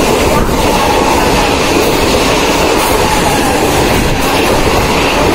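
Mumbai suburban local train (electric multiple unit) running between stations, heard from inside the coach: a steady, loud noise of wheels on the rails and the coach rattling.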